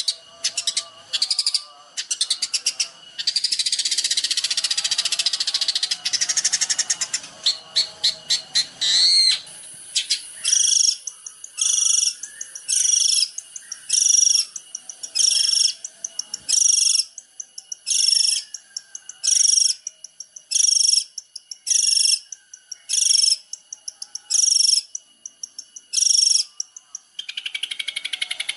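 A songbird singing: fast, rattling trills at first, then a long series of short, loud, high whistled notes repeated about once a second, with trills returning near the end.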